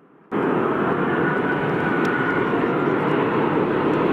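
Airliner jet engines running, a steady loud rush with a faint high whine over it, cutting in abruptly about a third of a second in.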